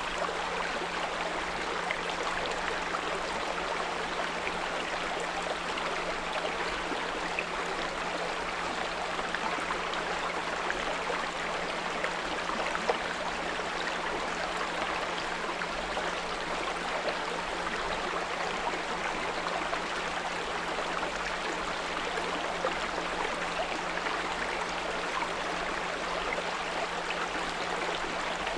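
Small brook trickling and gurgling steadily, with a steady 174 Hz pure tone mixed in underneath.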